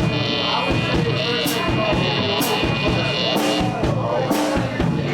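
Live blues band playing, the drum kit to the fore with a cymbal crash about once a second over bass and guitar.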